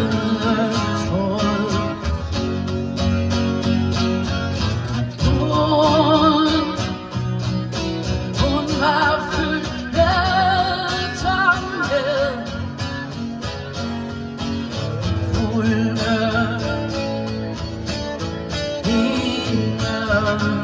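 Live band music: guitar-driven instrumental passage with a wavering melodic lead line over the accompaniment.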